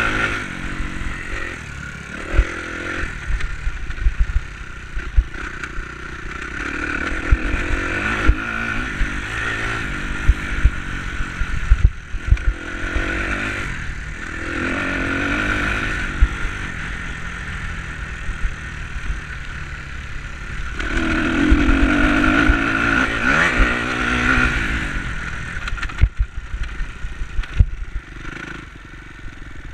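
Enduro motorcycle engine revving up and easing off in repeated surges as it is ridden on a dirt track, with scattered knocks and clatter.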